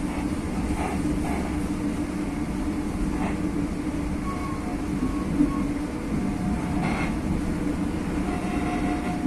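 Joglosemarkerto passenger train running, a steady rumble with a continuous hum.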